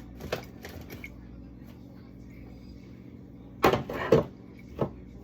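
Food containers and packages being handled and set down while a fridge is cleared out: light clicks and taps, then two sharp knocks a little over halfway through and a third shortly after.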